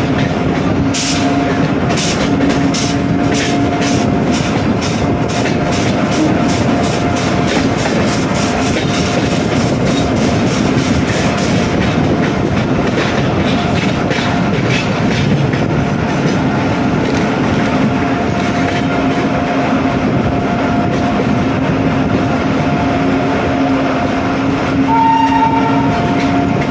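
Train of LHB coaches running at speed: a steady rumble and hum, with wheels clicking over rail joints about twice a second for the first half before the clicks fade out. A short horn blast sounds near the end.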